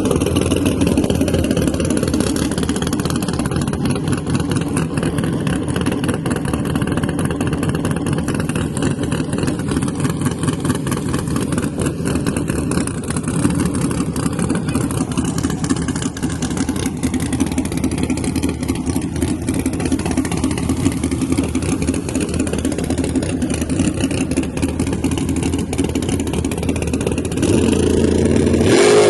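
Drag car engine running at a steady, loud rumble, then revving up near the end.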